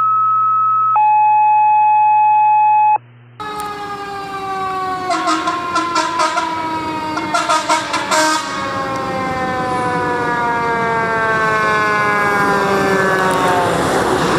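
Two steady electronic tones, one after the other, then a fire engine's siren: a long wail that falls slowly and steadily in pitch, with two bursts of rapid pulsing blasts about two and four seconds after it starts.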